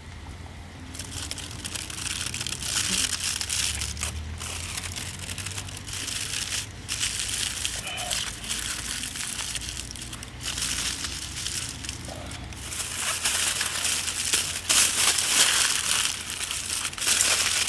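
Crinkling, rustling sound of crinkly material such as packaging being handled, starting about a second in and coming in stretches with short pauses, loudest near the end.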